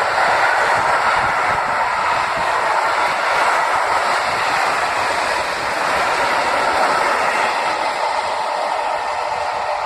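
A train passing on the line, a steady noise of wheels on rail that eases slightly near the end.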